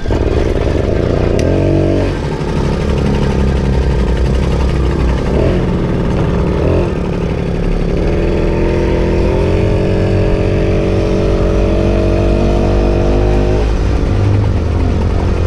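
Moped engine running under way, its pitch rising as it accelerates a few times and then holding steady, over a heavy low rumble of wind on the mic.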